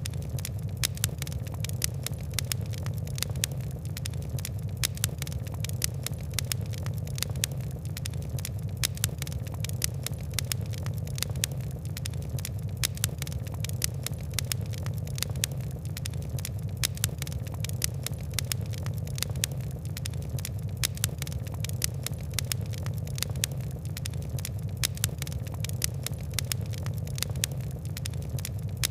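Fire crackling in a fireplace: dense, irregular sharp pops and ticks, several a second, over a steady low rumble of burning.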